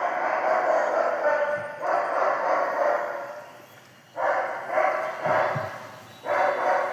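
Loud animal calls: two long cries, then three shorter ones in quick succession and a last one near the end.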